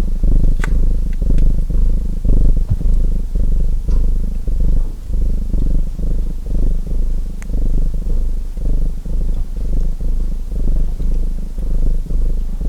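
Domestic cat purring loudly and continuously, the purr swelling and fading with each breath about once a second. A few faint pops from a wood fire crackling sound through it.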